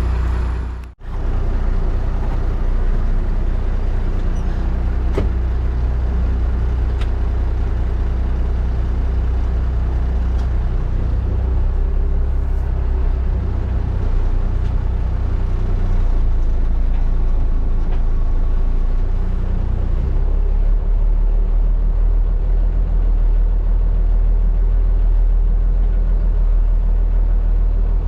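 Rollback tow truck's engine running steadily while the truck is moved, with a deep low rumble that grows heavier about two thirds of the way through.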